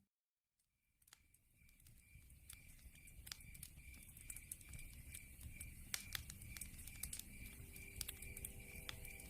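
Wood fire crackling, with scattered sharp pops and snaps, fading in after about a second of silence. Under it, crickets chirp in a steady pulsing trill.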